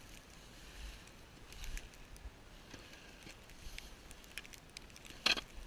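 Footsteps crunching in snow: scattered irregular crackles, with one louder crunch near the end.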